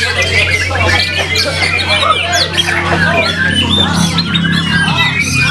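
White-rumped shama singing a loud, rapid, varied song of quick whistled notes that rise and fall, mixed with harsh squawking calls.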